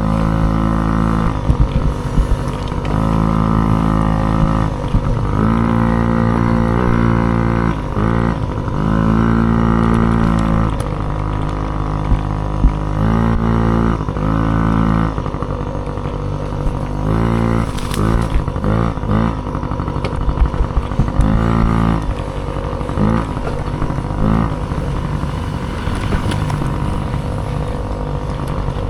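Small dirt bike engine revving hard and backing off over and over, its pitch climbing and dropping every second or two through the throttle and gears while racing over rough ground, with a constant low rumble and a few sharp knocks.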